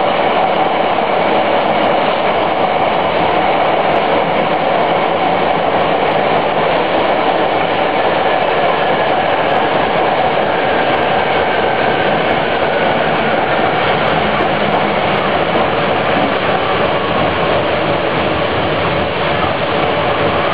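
Fiat Materfer subway car running at an even pace, heard from on board: a steady rolling rumble and wheel noise with a constant whine running through it.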